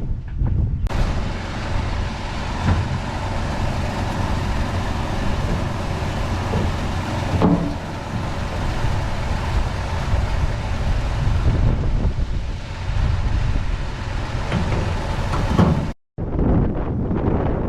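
Heavy diesel machinery running steadily with a low rumble, cutting out abruptly near the end before a similar rumble resumes.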